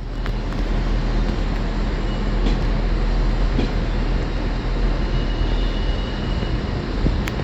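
A train moving through the station with a steady rumble. A faint high-pitched whine comes in over the last two seconds or so, and there is a short click near the end.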